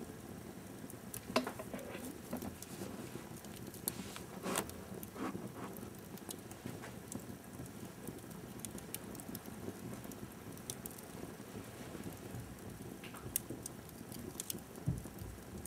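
Wood fire in a fireplace crackling: scattered sharp pops and snaps over a low steady hiss, with a dull thump near the end.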